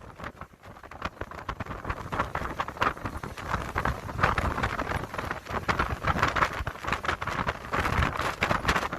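Storm wind buffeting the microphone in irregular gusts, with rain pattering.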